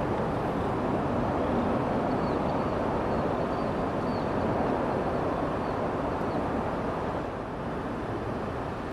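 Steady rushing wind noise, easing slightly about seven seconds in.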